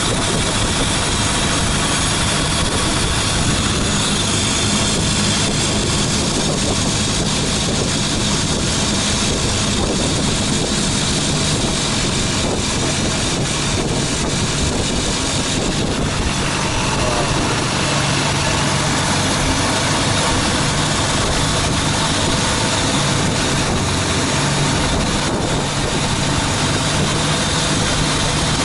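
Tour boat's engine running steadily, with a broad rushing noise over it.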